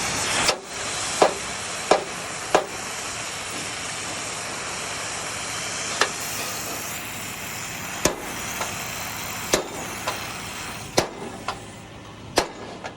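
Rivets being set one at a time: about ten sharp snaps or knocks, one every second or two, over a steady hiss.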